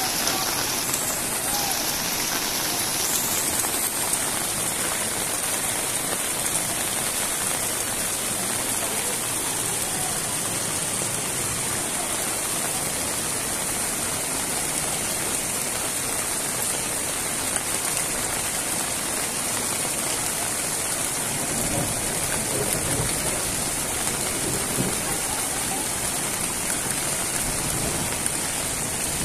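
Heavy rain and fast-flowing muddy floodwater running down a street: a steady, even rushing hiss.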